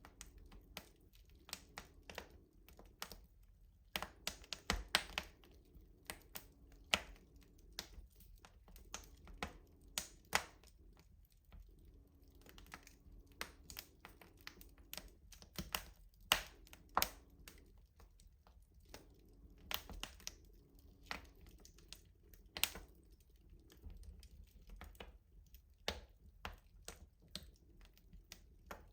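Wood fire crackling in a traditional rustic stove: irregular sharp snaps and pops, some much louder than others, scattered all through.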